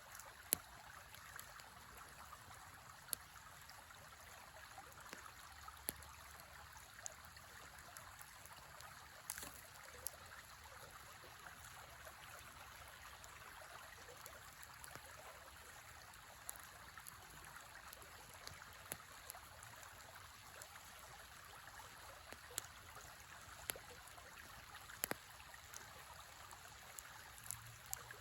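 Wood fire in a fire pit crackling, with sharp irregular pops now and then, over the steady rush of a river.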